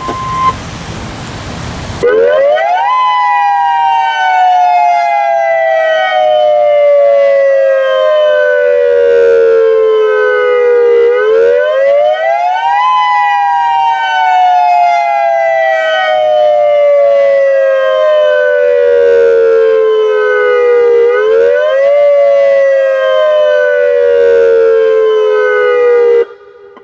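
Federal Signal Modulator 6024B electronic outdoor warning siren sounding its attack tone during a test. Two tones sound together, sweeping quickly up and then gliding slowly down, three times over about twenty seconds. A burst of hiss comes first, and the siren cuts off abruptly just before the end.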